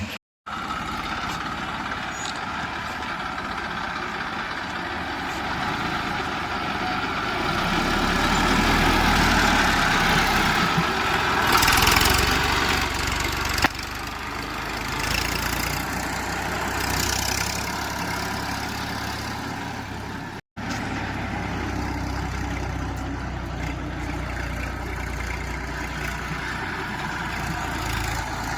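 Diesel engine of a JCB 3DX backhoe loader running as it works, swelling louder for a few seconds near the middle, with one sharp knock about halfway through. The sound drops out briefly twice.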